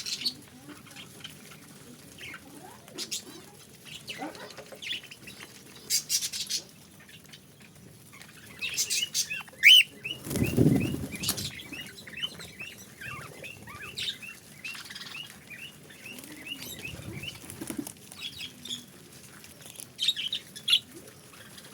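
Budgerigars chirping in runs of short, quick chirps, with scattered sharp clicks and a burst of wing-fluttering about ten seconds in.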